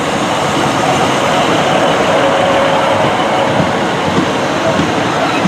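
Two coupled Class 153 diesel railcars running in alongside the platform: a steady, loud rush of wheels on rail and engine noise, slowly growing louder.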